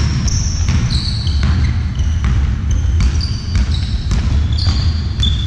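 Indoor court game: repeated thuds of a ball and players' feet, with many short high squeaks of shoes on the hall floor over a steady low hum.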